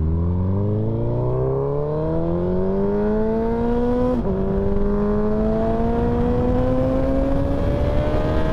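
Motorcycle engine accelerating under load as heard from the rider's seat: the revs climb, drop sharply at an upshift about four seconds in, then climb more slowly in the next gear.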